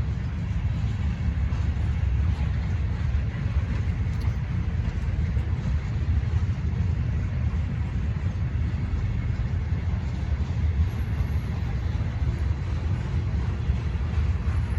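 Steady low rumble of a CSX freight train rolling past.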